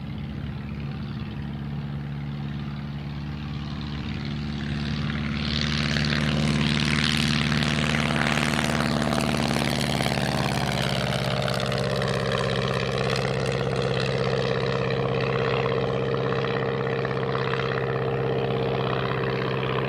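Light propeller plane's piston engine running at takeoff power, growing louder about five seconds in as it makes its takeoff run and staying loud with a steady propeller drone.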